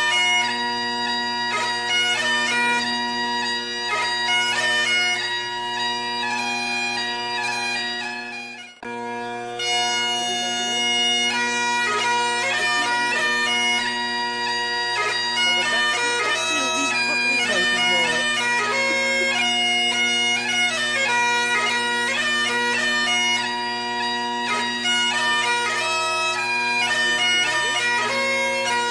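Highland bagpipes playing a tune over their steady drones. The sound drops out briefly about nine seconds in, then resumes.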